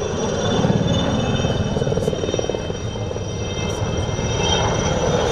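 IAR-316 (licence-built Alouette III) helicopters in display flight: the rapid beat of the rotor blades under a steady high whine from the turboshaft engine.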